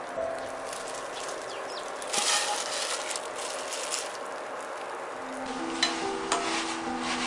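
Shredded dried squid sizzling as it goes into hot gochujang sauce in a stainless-steel pan, loudest about two seconds in, then stirred, with a couple of sharp taps against the pan near the end.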